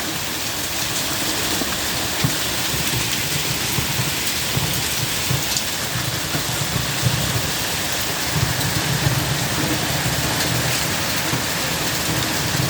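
Torrential rain pouring down steadily, with scattered sharp ticks of drops striking hard surfaces and a low rumble that swells and fades more than once.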